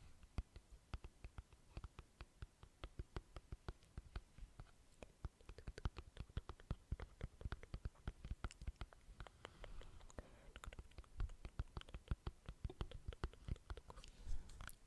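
Close-microphone ASMR trigger sounds: dense, irregular soft clicks and taps, several a second, with a few louder ones.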